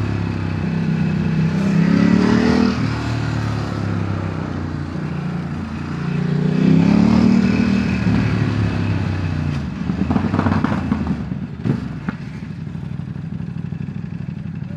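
Ducati DesertX's V-twin engine accelerating hard twice, its pitch rising through the revs each time, then running steadier and lower. A brief clatter and a sharp click come about ten to twelve seconds in.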